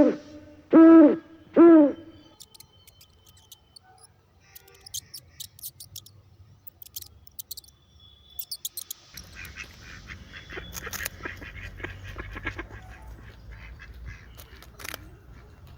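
Two loud hooting animal calls in the first two seconds. Faint scattered high chirps and clicks follow.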